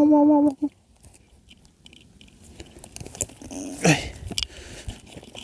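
A dog gives a short, even-pitched whining bark, then there are soft clicks and rustling, with a brief falling sound about four seconds in.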